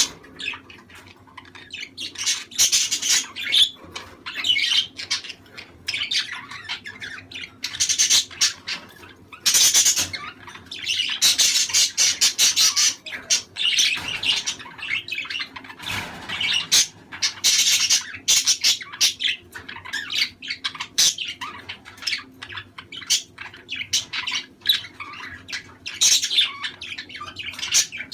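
Budgerigars chattering: a flock of budgies warbling, chirping and squawking in quick, overlapping bursts, the kind of calling played to pet budgies to stimulate breeding.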